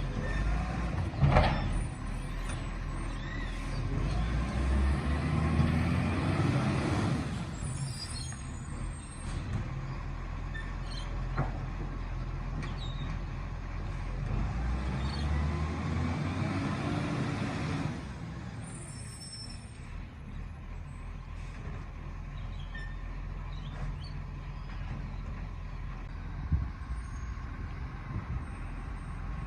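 Garbage truck's diesel engine idling, revving up twice for a few seconds each time to drive the hydraulics, with a knock about a second in and short hisses of air after each rev.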